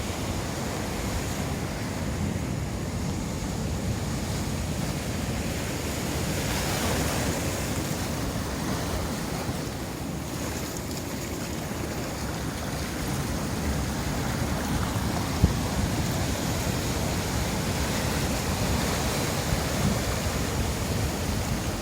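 Steady rush of sea surf from large waves breaking on a beach, with wind buffeting the microphone.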